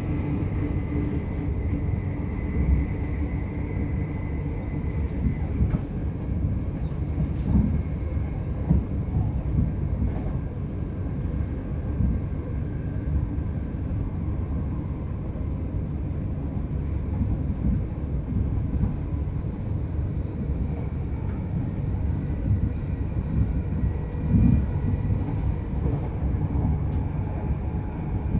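A c2c electric passenger train running along the line, heard from inside the carriage: a steady low rumble of wheels on rail with occasional short knocks. A faint high whine fades out in the first few seconds.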